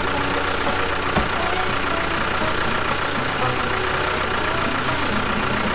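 An engine-like motor running steadily at an even pitch.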